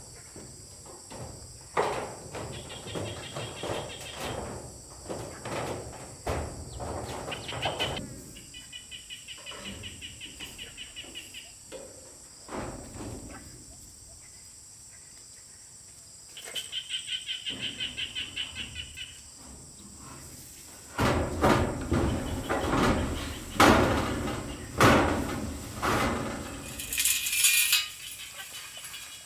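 Irregular knocks and thuds from manual work, loudest in the last third. Between them a fast-pulsing high trill, like an insect or bird, sounds twice for about three seconds each time.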